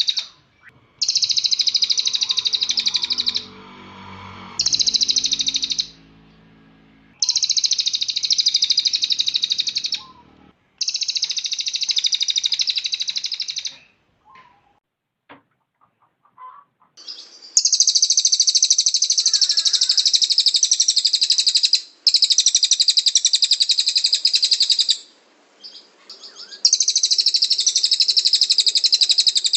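Cililin songbird singing its rapid-fire trilled bursts ('tembakan'): high, dense rattling phrases of two to four seconds each, repeated with short gaps and one longer pause midway.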